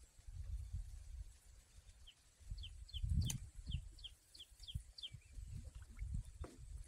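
A bird sings a run of about nine short, high, downward-slurred notes, about three a second, over a low rumble. One sharp knock comes about three seconds in.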